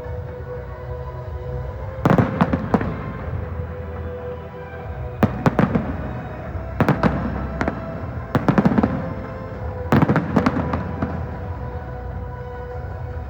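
Fireworks bursting overhead in quick clusters of several sharp bangs, about five clusters spaced a couple of seconds apart, over steady background music.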